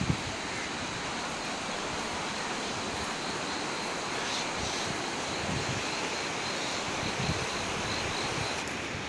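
Swat River water rushing past in a steady, unbroken hiss, with low wind buffeting on the microphone now and then.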